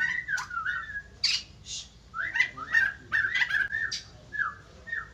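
White-crested laughingthrush singing: a run of short whistled notes that slide up and down, broken by short harsh chirps.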